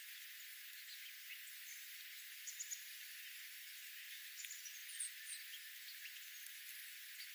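Small wild birds giving a few brief, high chirps over a steady faint high hiss, with several chirps coming close together about two and a half seconds in and again around four to five seconds in.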